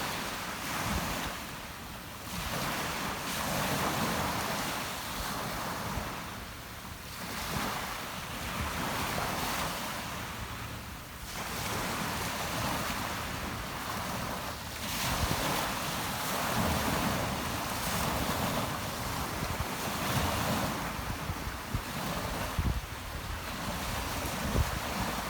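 Rough sea surf, waves breaking and washing ashore in swells that rise and fall every few seconds, with wind gusting on the microphone.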